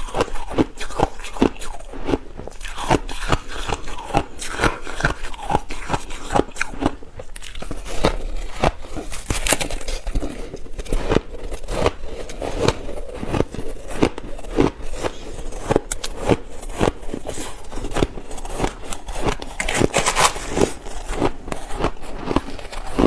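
Ice being bitten and chewed close to the microphone: a continuous run of sharp crunches and crackles, several a second.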